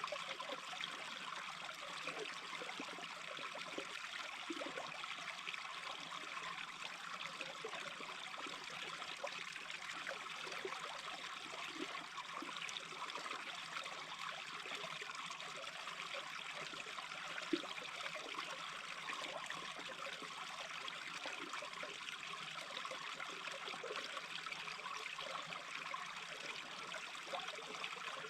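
A small brook babbling steadily, with one brief louder blip about two-thirds of the way through.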